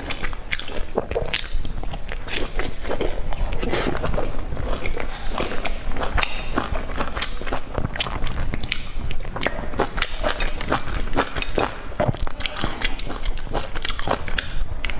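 Close-miked chewing of fried, sauce-glazed food: a steady run of quick mouth clicks and smacks.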